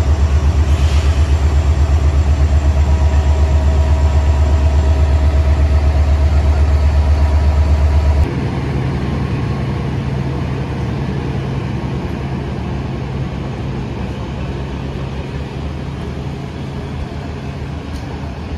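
Diesel engine of a Siemens Desiro diesel multiple unit idling with a loud, fast, even low throb. It cuts off abruptly about eight seconds in, giving way to a quieter, steady low rumble of a train that slowly fades.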